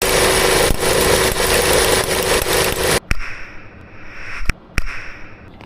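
Kia Morning engine running at idle with a loud noise and a steady hum, a symptom traced to a faulty alternator OAD (overrunning decoupler) pulley. About halfway through the noise cuts off sharply, and a few sharp clicks follow.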